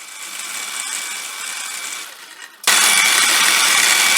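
Small machine tool running on a metal part, then a much louder, steady cutting noise with a high whine that starts abruptly about two-thirds of the way through as the cutter bites.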